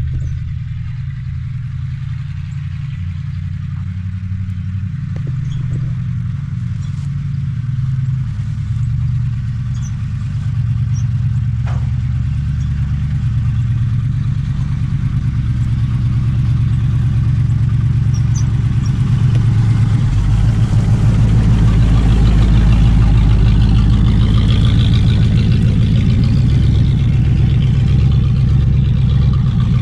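1980 Jeep J10 truck engine running, with a steady low rumble that grows louder and busier about two-thirds of the way through as it is revved or put under load.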